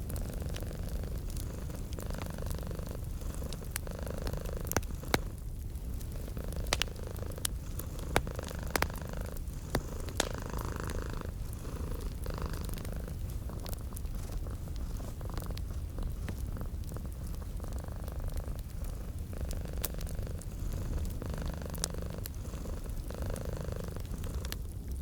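A cat purring steadily in a low rumble that swells and eases with each breath, over a wood fire crackling with scattered sharp pops.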